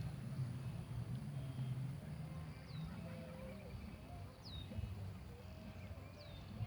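A bird calling a short, high, downward-sliding whistle three times, about two seconds apart, over a steady low rumble.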